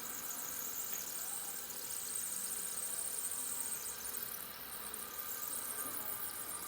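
Electric fan running with a steady, faint high-pitched squeal.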